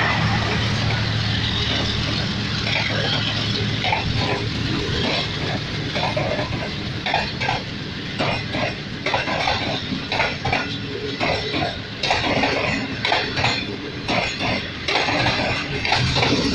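Passenger train coaches passing at speed. A steady low rumble fades over the first few seconds, then the wheels keep up a rapid, irregular clatter of metallic clanks on the track.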